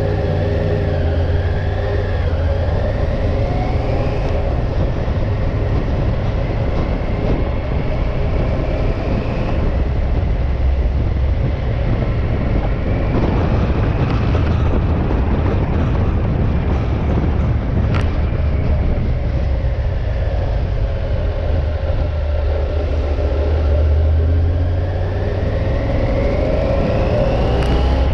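Motorcycle engine and wind noise while riding, the engine pitch rising and falling several times with changes of speed. There is one sharp click about 18 seconds in.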